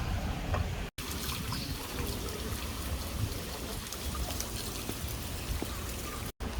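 Water running and trickling in a steady splashing hiss, broken by two brief dropouts, about a second in and near the end.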